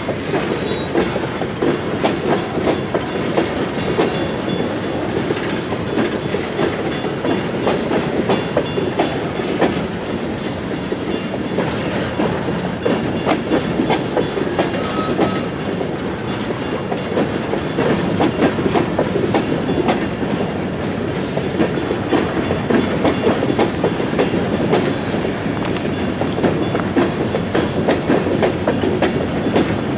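Coal train of open hopper cars rolling past at a steady speed, its steel wheels clicking over the rail joints in a continuous stream of clicks.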